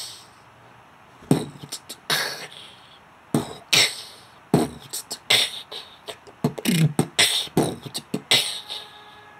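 Beatboxer's inward 'kiss' sound: a K sucked in hard, giving a sharp snare crack with a hissing, hi-hat-like tail. After about a second of quiet come a few single strikes, then a quicker rhythmic run like a beat.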